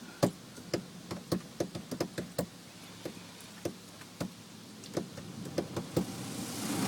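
Irregular light knocks and taps on a car's body, heard from inside the cabin in an automatic car wash. Near the end a rushing noise of water spray starts to build.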